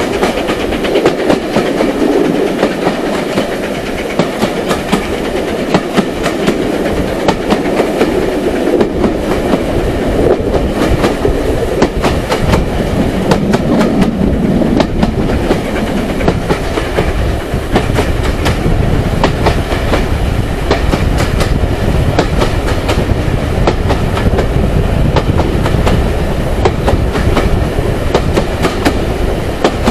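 Railway carriage on the move, heard from the carriage window: a steady running rumble with frequent clicks of the wheels over rail joints. The rumble deepens from about halfway through.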